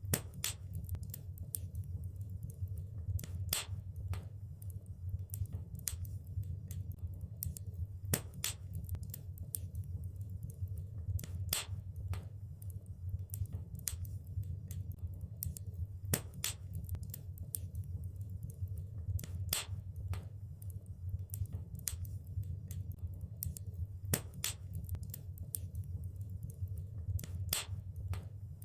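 Wood fire burning in a fireplace: a steady low rumble under irregular sharp crackles and pops, with a louder snap every few seconds.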